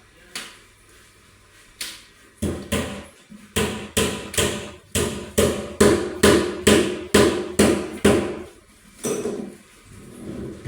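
A hammer striking repeatedly, about fifteen blows at roughly two a second, with a few lighter taps first.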